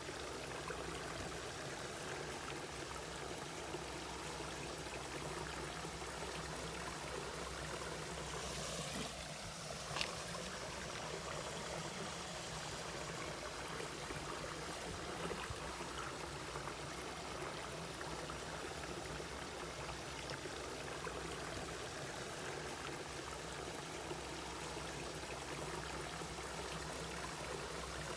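A mountain stream flowing and trickling over rocks, a steady even rush of water, with a single sharp click about ten seconds in.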